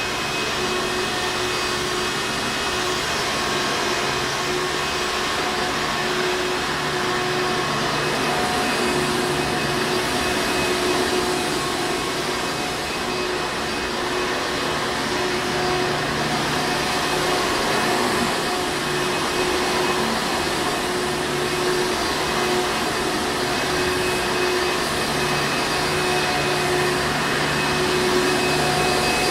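Hoover Encore Supreme vacuum cleaner running steadily, an even rushing noise of air with a constant motor tone through it.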